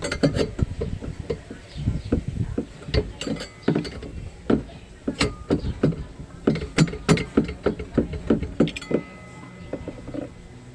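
Metal tools knocking and clinking irregularly against the twin-tub washing machine's metal parts, some strikes leaving a short metallic ring. The clatter stops about nine seconds in.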